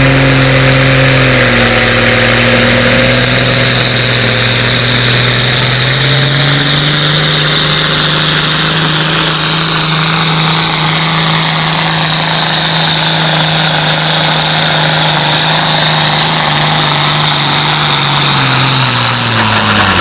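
Pulling tractor's engine running hard at high revs during a pull, with a high steady whine above it. The revs step up about a third of the way in and fall away sharply near the end as it comes off the throttle.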